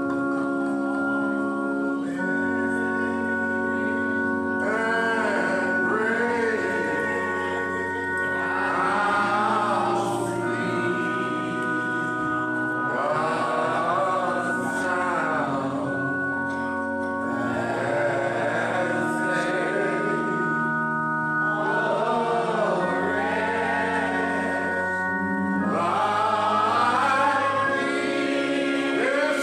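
Gospel music: an organ holding sustained chords that change every few seconds, with sung phrases coming in over it about five seconds in and continuing in separate lines.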